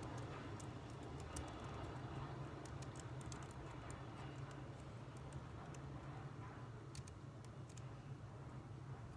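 Faint typing on a computer keyboard: irregular keystrokes, quicker for the first few seconds and then sparse, over a steady low hum.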